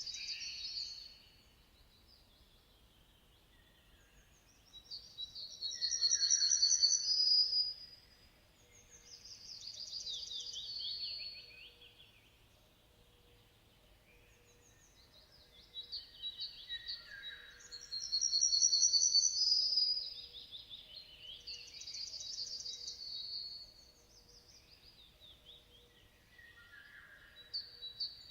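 Songbird singing: fast high trilled phrases of two to three seconds, each falling away at the end, repeated every few seconds with short pauses between them.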